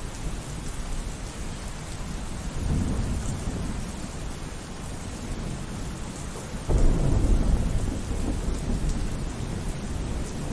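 Steady rain with rolling thunder: a low rumble swells about two and a half seconds in, and a louder clap breaks suddenly near the middle and rumbles away over several seconds.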